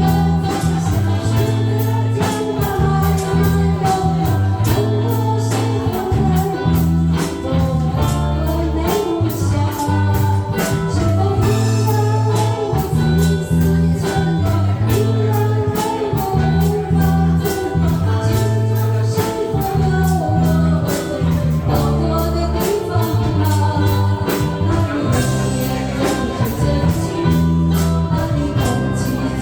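A singer performing a Mandarin pop ballad over instrumental accompaniment, with a repeating bass line and a steady beat.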